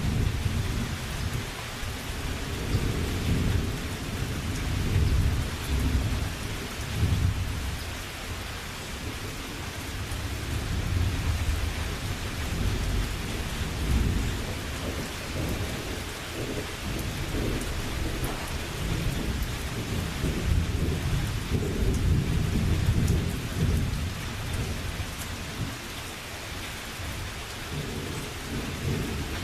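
Thunderstorm: steady rain falling, with low thunder rumbling in repeated swells underneath.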